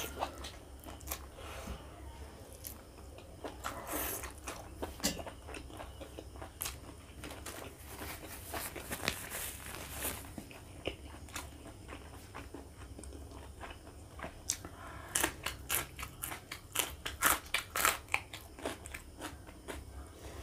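Close-miked chewing and biting of pork fat and ribs curry with rice, many short wet clicks and smacks, most frequent in the last few seconds, along with fingers mixing rice and curry on the plate. A tissue rustles briefly about halfway through as the mouth is wiped.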